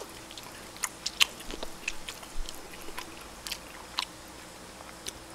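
A person chewing a mouthful of barbecued duck close to the microphone, with irregular wet smacking and clicking mouth sounds.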